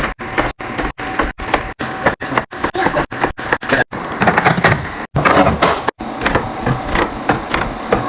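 Food containers, jars and packages being handled and set down while a fridge is restocked: a busy run of clacks, knocks and clatter. It is chopped by brief total silences about twice a second from rapid edits.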